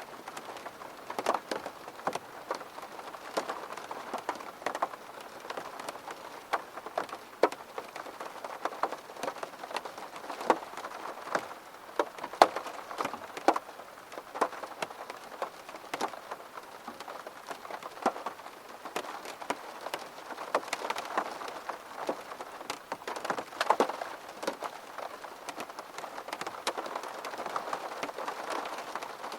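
Steady rain, with many individual drops tapping sharply and irregularly.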